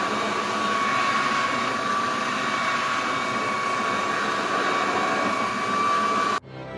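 A small electric motor runs steadily with a high, even whine over a loud rushing hiss, then cuts off abruptly near the end.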